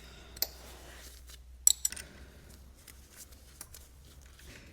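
A few light clicks and taps of small metal parts being handled, the loudest about one and a half seconds in, over a faint steady low hum.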